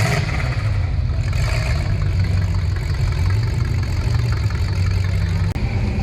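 1950 Chevy Fleetline's engine running steadily at low speed, heard from inside the car, with a slight change in tone near the end.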